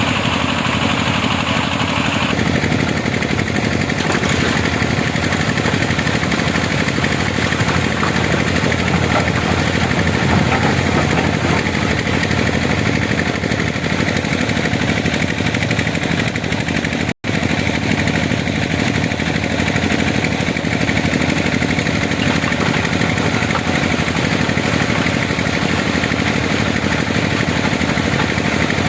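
Excavator diesel engine running steadily as it works, with a brief complete dropout about two-thirds of the way through.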